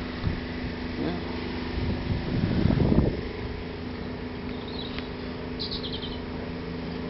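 An engine running steadily in the background, swelling louder for a moment about two and a half seconds in, with a bird giving a quick run of high chirps about five and a half seconds in.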